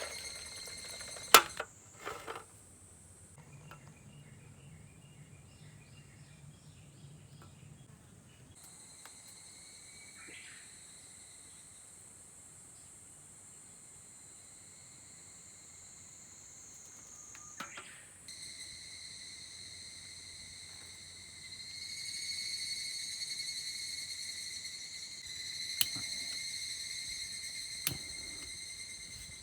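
Insects shrilling steadily in a high, even tone that grows louder about two-thirds of the way through. A few sharp clicks or knocks cut in, the loudest about a second and a half in.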